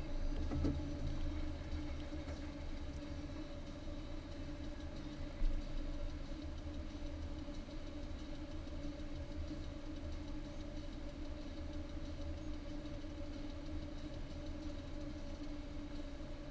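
Car engine idling, heard from inside the cabin as a steady low hum while the car sits stopped in traffic. A single brief knock about five and a half seconds in.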